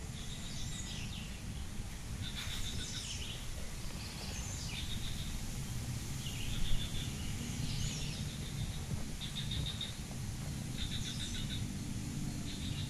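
Birds calling: short trilled phrases, high-pitched, repeated every second or two, over a steady low outdoor rumble, with one brief louder knock about two-thirds of the way through.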